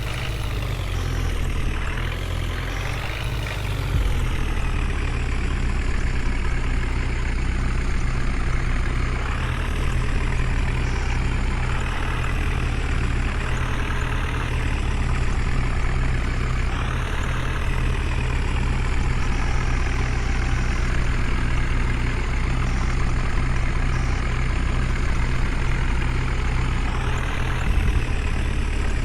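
Heavy diesel engine of a tractor or backhoe loader running under load, revving up and falling back several times.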